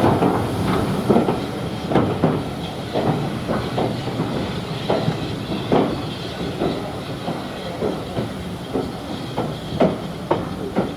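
Railway train running on the track, its wheels clicking and knocking irregularly over rail joints with a steady rumble and hiss, slowly growing quieter.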